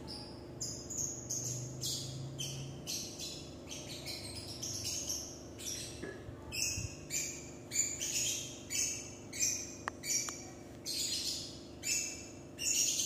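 A bird chirping over and over in short high calls, about two a second, louder in the second half.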